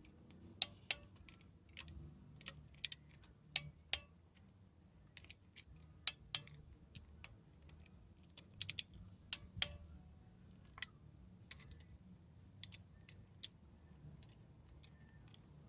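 Small-block Chevy 350 hand work: scattered light clicks and taps of hand tools and bolts being handled, irregular and unrhythmic, with a faint low hum underneath.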